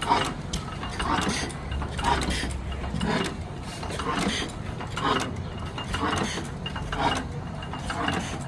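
Old machinery running with repeated mechanical clacking, roughly two knocks a second and not quite evenly spaced, over a low steady hum.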